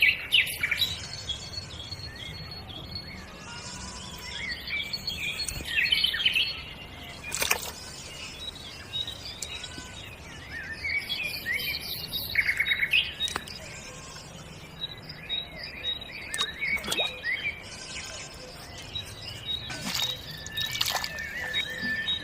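Small birds chirping and calling, many short whistles and tweets, with a few sharp clicks scattered through.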